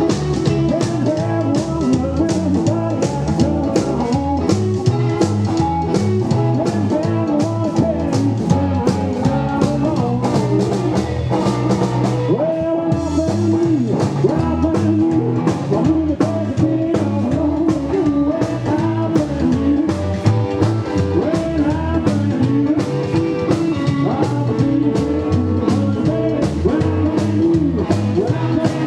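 Live rockabilly trio playing: upright double bass, electric lead guitar and a drum kit keeping a steady, driving beat. The cymbals drop out for about a second roughly twelve seconds in, then the beat carries on.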